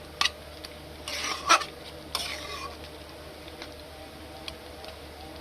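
A spoon stirring chicken curry in a pot, scraping and knocking against the pan a few times in the first two seconds, then lighter taps, over a faint sizzle of the curry with its water just added.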